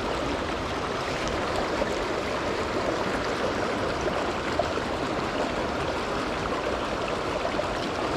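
Steady rush of mountain-stream water, an even noise with no change.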